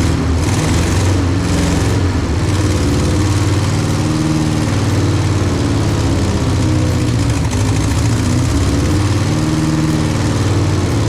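A 1964 Peugeot 404's four-cylinder petrol engine, freshly rebuilt after being seized, running steadily at idle on its first start.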